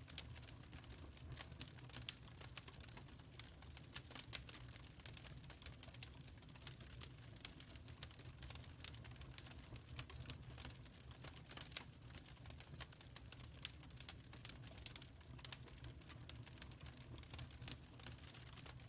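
Wood fire crackling in a firepit: irregular sharp pops and snaps, several a second, over a low steady rumble.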